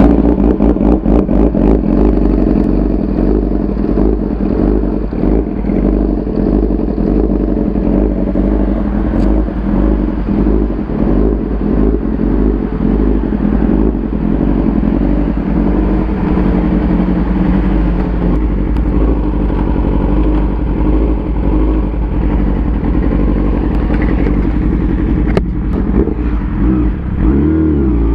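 Motorcycle engine running steadily while riding, its note held even, then dipping briefly and climbing again near the end as the bike eases off and accelerates.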